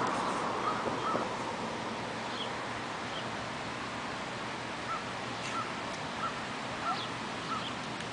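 A bird giving short, repeated calls, roughly one or two a second, over a steady outdoor hiss.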